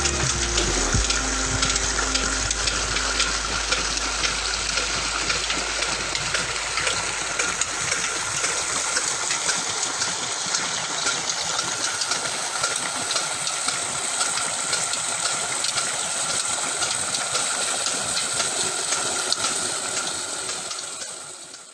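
Old diesel engine running: a steady, noisy clatter full of small ticks, with a low hum that dies away over the first several seconds. The sound fades out at the very end.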